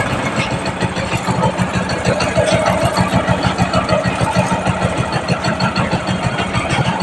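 Bajaj Discover's single-cylinder four-stroke engine idling with a rapid, even beat. Since the camshaft was replaced it runs without its earlier loud noise, leaving only a light squeak that the mechanic puts down to a worn timing chain adjuster.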